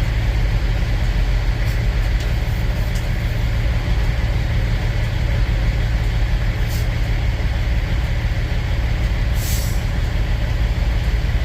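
Kenworth semi-truck's diesel engine running steadily with a low rumble as the truck drives off, with a brief hiss of air about nine and a half seconds in.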